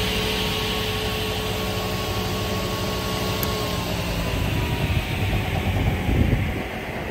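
SICAR single-shaft crawler-feed multi-rip saw running steadily. About four seconds in its steady hum drops away and the remaining tone slides slowly down in pitch as the machine runs down, leaving a low rumble.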